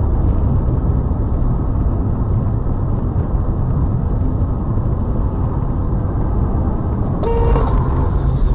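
Steady low rumble of a moving road vehicle's engine and tyres, with a short tonal sound about seven seconds in.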